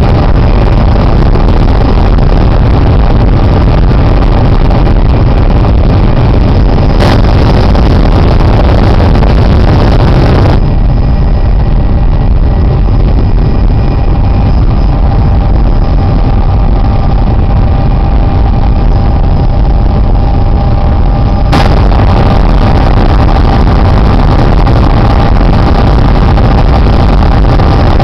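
Helicopter engine and rotor noise heard from inside the cabin: a loud, steady drone with a thin steady whine over it. The sound turns duller for about ten seconds in the middle, with a click at each change.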